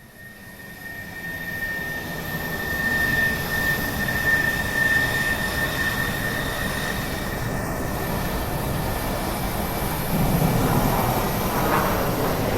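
Airplane engine noise: a steady rushing drone that swells up over the first few seconds, with a thin high whine under it that fades out about two-thirds of the way through.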